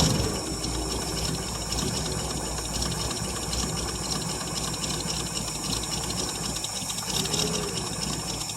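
1959 International B120 pickup's engine running roughly on a cold start after catching, on gas poured into the carburettor, at a steady level.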